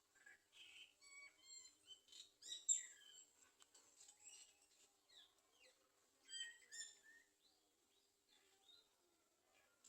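Faint, quick high chirps and twitters of garden sunbirds at the nest, bunched in two bursts: one in the first three seconds and another around six to seven seconds in.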